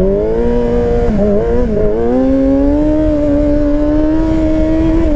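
Motorcycle engine running under throttle; its pitch wavers and dips about a second in, then climbs slowly and steadily, with a short dip near the end.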